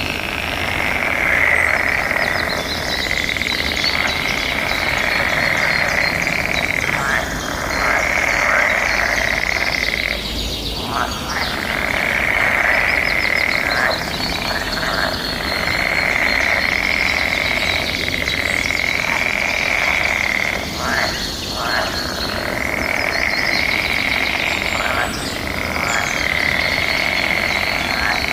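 A chorus of many frogs calling together in a dense, continuous trilling din, easing off briefly every few seconds, with small birds chirping over it.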